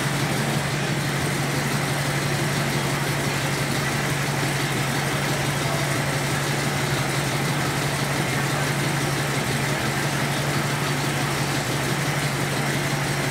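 1941 Packard straight-eight engine idling steadily, running smooth and nice and quiet on a freshly installed set of lifters.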